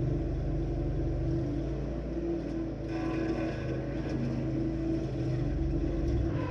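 27-horsepower stump grinder running steadily under load, its engine holding a constant pitch as the cutter wheel chews into a large tree stump, with more gritty grinding noise from about halfway through.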